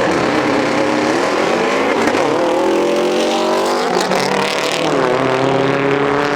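A performance car's engine under hard throttle, its pitch climbing and dropping back several times, about every one to two seconds.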